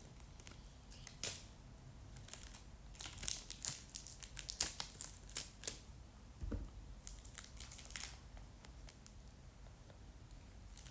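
Sticky tape being pulled, torn and pressed onto a tissue-paper squishy, with the paper crinkling: a run of short crackles and snaps, busiest in the first half, with a soft thump a little past the middle.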